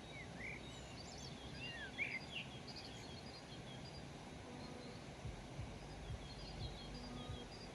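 Small songbirds chirping in short, quick calls, busiest in the first three seconds and sparser after, over a steady low rumble of outdoor background noise. A few soft low thumps come in the second half.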